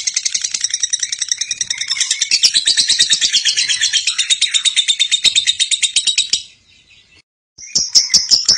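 Lovebird chattering in a long, rapid 'ngekek' trill: a fast unbroken string of high chirps. It breaks off about six and a half seconds in and starts again about a second later.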